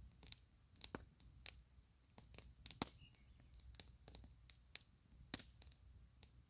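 Campfire crackling: faint, irregular pops and snaps of burning wood, with one sharper snap about three seconds in, over a low steady rumble.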